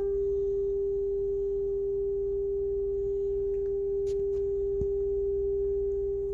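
A single steady test tone of about 400 Hz, with faint overtones, held unbroken from the speaker of an Akai ATA301 under audio test.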